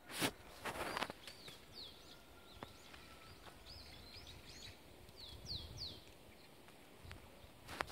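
A small bird calling: a quick run of short, high, down-slurred chirps. Two brief scuffing noises within the first second are the loudest sounds.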